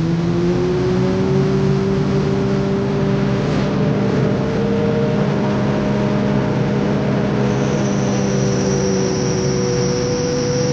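Heavy road-construction machinery with diesel engines running steadily, the engine note drifting slowly up and down. A high-pitched whine joins in about three-quarters of the way through.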